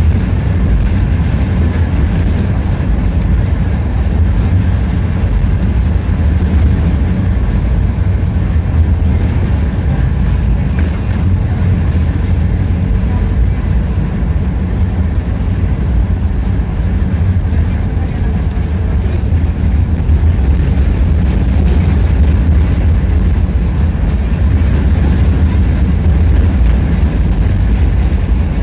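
Tram running along its route, heard from inside the passenger car: a loud, steady low rumble of the wheels on the rails and the running gear.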